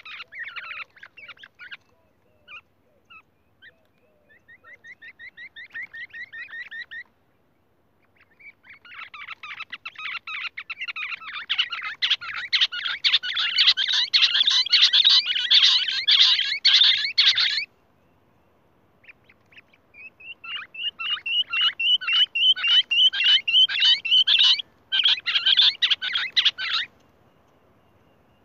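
A bird calling in runs of fast, evenly repeated sharp notes. A short run comes near the start and another a few seconds in, then the loudest run lasts about nine seconds, and a last run of clearer chirping notes fades out near the end.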